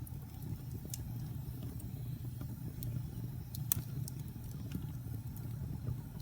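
Fire burning in a fireplace: a low steady rumble with scattered sharp crackles and pops, the sharpest a little under four seconds in.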